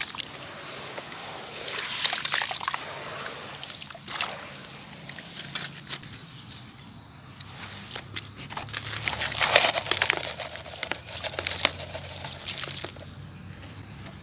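Black grainy bowls crumbling and breaking apart in water: sloshing and trickling with gritty crackling, in several swells, the loudest about nine to ten seconds in.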